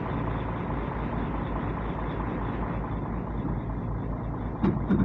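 Heavy diesel engine running steadily with a low, even rumble, with a brief louder sound near the end.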